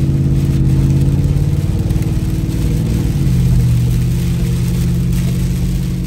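Mercedes G63 AMG Brabus V8 heard from inside the cabin, a steady low drone while driving. About two seconds in, its pitch wavers and breaks up for a moment, then settles back into a steady drone.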